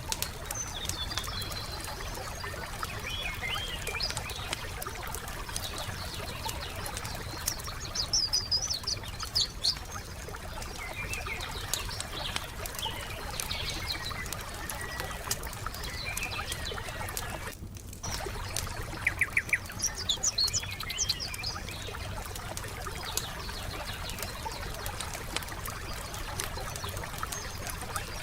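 Wood fire crackling steadily with small pops, under forest birds chirping in short bursts of calls. The sound briefly drops out about two-thirds of the way through.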